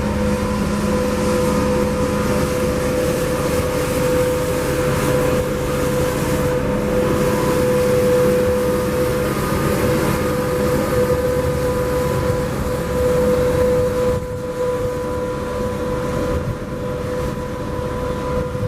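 Wind buffeting the microphone with a rough rumble, over a steady mechanical hum at one pitch.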